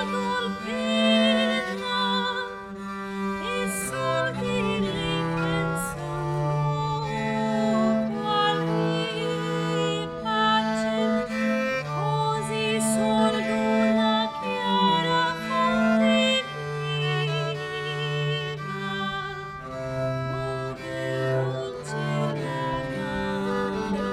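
Live performance of an early Italian Renaissance frottola by a small ensemble: bowed string instruments play held bass notes that change every second or two, under wavering melody lines.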